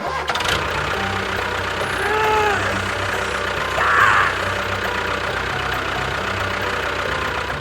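Small engine running steadily with a low even rumble, a short rise-and-fall tone about two seconds in and a brief high squeal about four seconds in.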